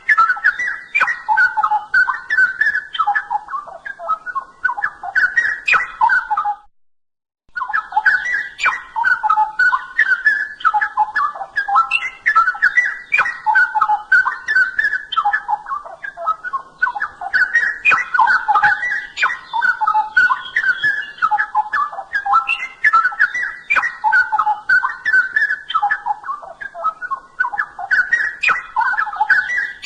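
Straw-headed bulbul singing a continuous stream of loud, liquid warbling phrases. The song breaks off completely for about a second near 7 s, then resumes.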